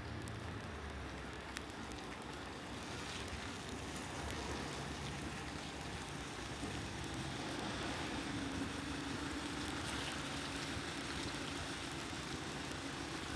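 Steady hiss of light rain falling. About halfway through, a low steady engine hum of a vehicle comes in under the rain.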